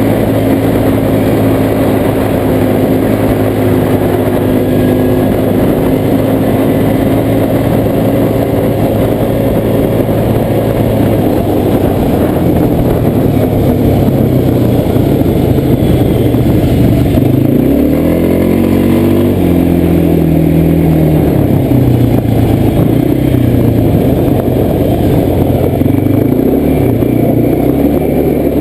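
Quad bike (ATV) engine running under way on a trail. It holds a steady speed for the first ten seconds or so, then revs up and down repeatedly, with one clear rise and fall around two-thirds of the way through.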